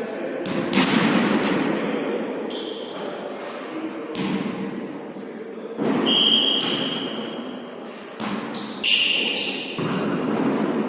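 A volleyball being struck and bouncing on a sports-hall floor during a volley tennis rally, about eight sharp hits, each echoing in the hall. Two short, high, steady squeaks come in a little past the middle and near the end.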